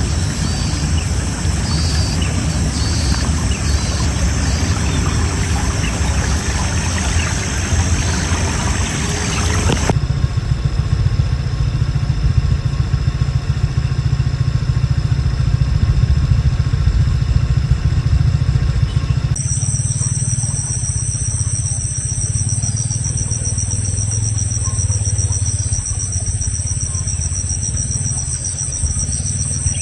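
Outdoor sound in three cuts over a constant low rumble. First comes broad noise, then, about ten seconds in, a steady engine-like hum with even tones. From about nineteen seconds a high, steady whine joins that fits insects.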